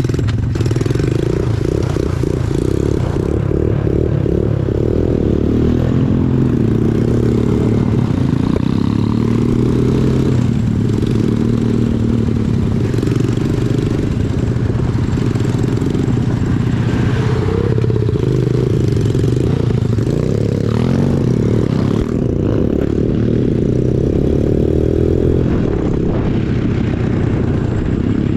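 Small 140cc off-road engine running under way, its revs rising and falling as it is ridden, with some rattling and scraping over the rough road.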